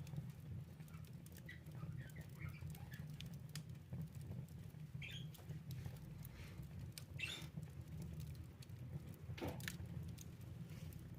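Wood fire crackling in a fireplace: a steady low rumble under many small irregular crackles, with a few sharper pops, about five seconds in, seven seconds in and nine and a half seconds in.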